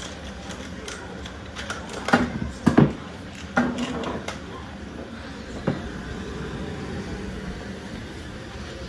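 Toy cars and a plastic ramp set being handled: a few sharp plastic knocks and clatters, bunched around two to four seconds in and loudest near three seconds, with one more knock near six seconds, over a steady room hum.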